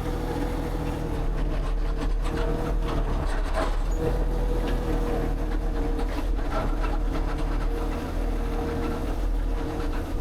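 An engine or motor running steadily, with irregular knocks and scrapes over it.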